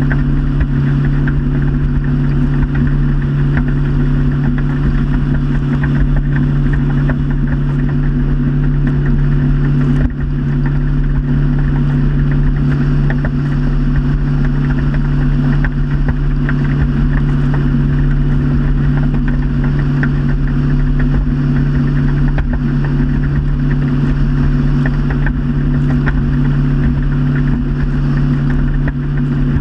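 Motorboat engine running steadily under way, a constant low drone with a brief dip about ten seconds in.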